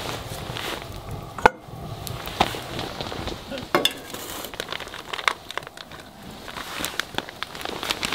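A run of irregular sharp clicks and crinkles, a few of them ringing briefly, over a low background rumble.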